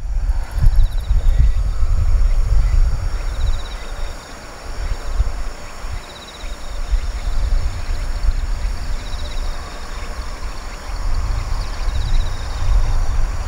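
Outdoor field ambience dominated by a low, uneven rumble that swells and fades, with steady high insect trilling above it and short rattling trills repeated every second or two.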